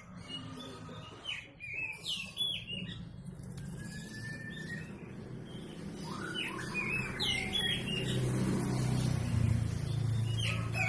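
White-rumped shama giving short, sharp chirps in scattered clusters, over a low steady hum that grows louder in the second half.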